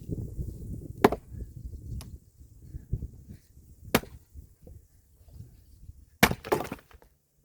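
Firewood being split by hand: several sharp chopping strikes on wood about a second apart, then a louder strike about six seconds in followed by a short rattle.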